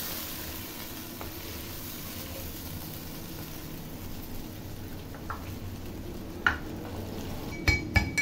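Chicken pieces frying in mustard oil in a clay handi, sizzling steadily as a wooden spoon stirs them. A single sharp knock comes about six and a half seconds in, and a quick run of ringing clinks starts just before the end.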